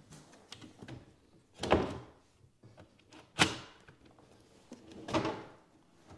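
Cabinet drawer slid in on its glides and knocking shut three times, about every second and a half to two seconds, as the newly assembled drawers are fitted and tested.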